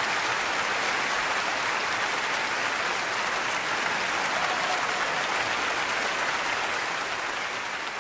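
Steady rushing hiss inside a moving car, fading away over the last second or so.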